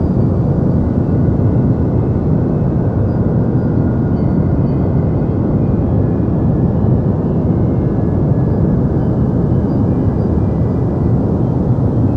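Steady deep white noise, a low, even hiss weighted heavily toward the bass with little treble, unchanging throughout.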